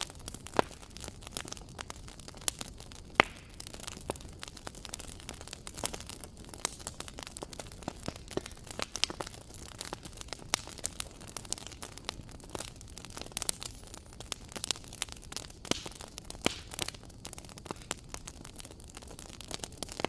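Wood fire crackling: a steady low rush of flames with frequent irregular sharp pops and snaps, the loudest pop about three seconds in.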